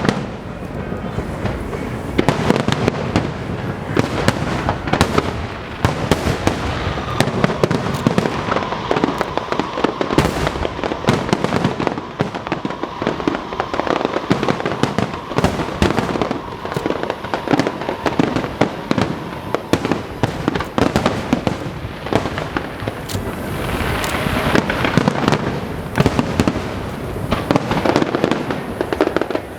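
A fireworks display going off in rapid succession: a dense, continuous barrage of shell bursts and crackling, with a stretch of hissing crackle about three-quarters of the way through.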